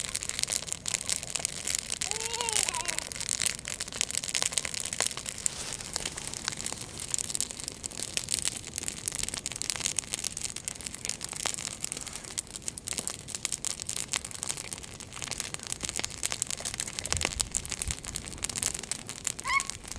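Bonfire crackling and popping with dense, irregular snaps.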